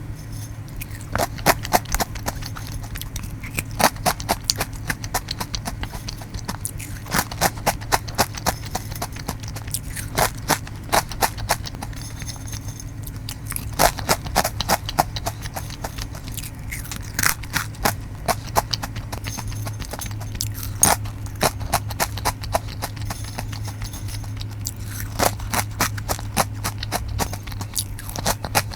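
Close-miked crunching and chewing of Karamucho hot chili potato chips, repeated clusters of crisp cracks bite after bite, over a steady low hum.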